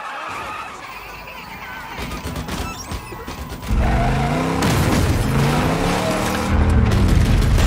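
A car engine revving hard in a film chase mix, its pitch swooping up and down from about four seconds in and growing louder near the end. Quieter mixed noise and clatter comes first.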